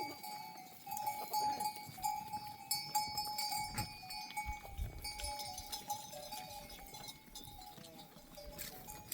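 Bells on a flock of sheep ringing irregularly as the animals move, several bells overlapping at steady pitches.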